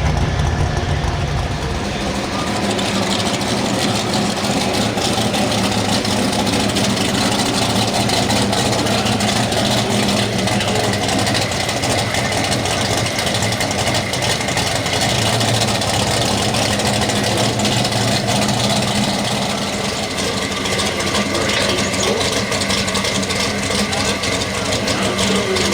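Pulling truck's engine running steadily at an even pitch.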